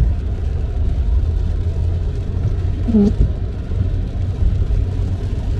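Steady low road and engine rumble heard inside a moving car. About three seconds in, a windshield wiper blade makes one short squeak as it sweeps, dragging stiffly on the glass.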